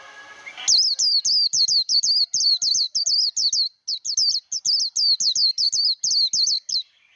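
A white-eye (vành khuyên) singing 'líu' competition song: a fast run of high, quickly sweeping repeated notes, about five a second, starting under a second in, with one short break about halfway through.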